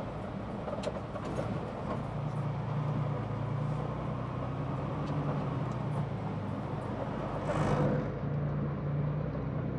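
Semi-truck's diesel engine running steadily, heard from inside the cab, with a short rush of noise about three-quarters of the way through.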